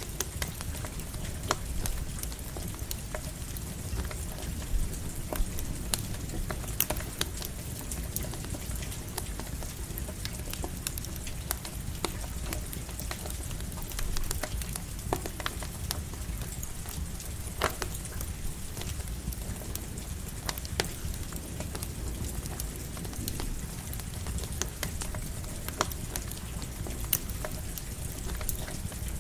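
Campfire crackling with scattered sharp pops over a steady hiss of light rain.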